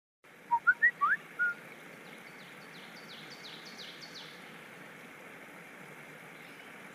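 Birds calling outdoors: a few loud short chirps in the first second and a half, then a quieter run of quick falling notes, over a steady background hiss.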